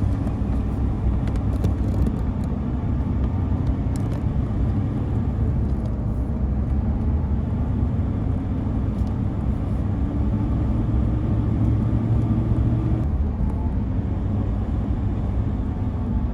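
Car driving: a steady low engine and road rumble with a hum, whose tone shifts about 13 seconds in.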